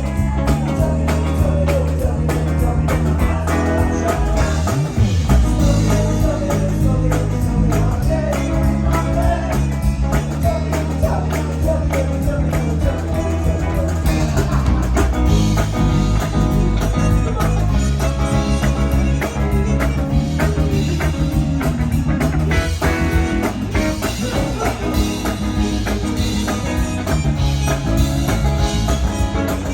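Live band playing a blues-rock song, with guitar over a steady bass line and possibly some sung vocal.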